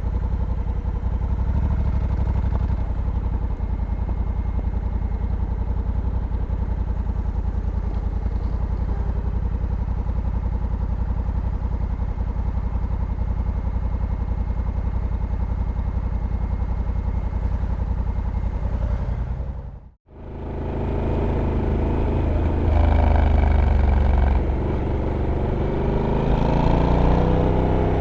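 Honda Africa Twin's parallel-twin engine running at a steady speed, then cutting to a brief near-silence about two-thirds of the way through. After that the engine comes back and rises and falls in pitch as it accelerates.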